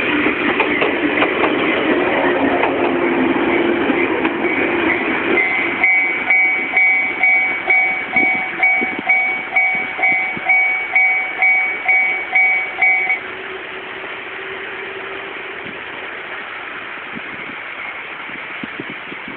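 A train running past on the JR Shinonoi Line, loud for the first five seconds or so. Then a Japanese level-crossing alarm rings its two-tone electronic clang about twice a second and stops abruptly about 13 seconds in.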